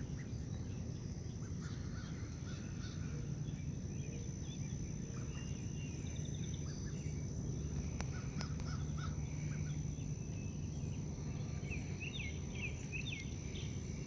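Outdoor waterside ambience with scattered short bird calls over a steady high insect drone and a low rumble, with a couple of sharp clicks about eight seconds in.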